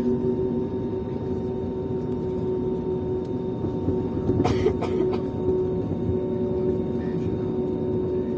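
Airliner's engines running steadily, a low rumble with a steady hum over it, and a short clatter about halfway through.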